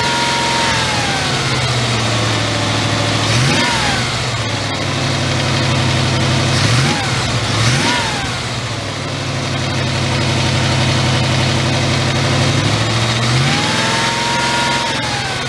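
Carbureted 350 V8 swapped into a 1991 Pontiac Firebird, running after being coaxed to start. It settles down from high revs, is blipped sharply three times, and near the end is revved up more slowly and let fall back to idle.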